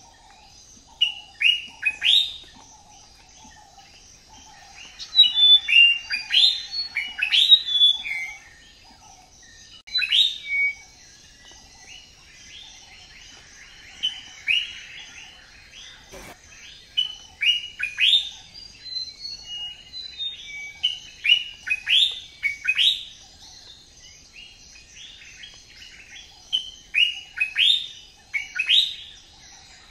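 Birds chirping: bursts of short, sharp notes that each fall quickly in pitch, several in a row, coming every few seconds, over a faint steady high hiss.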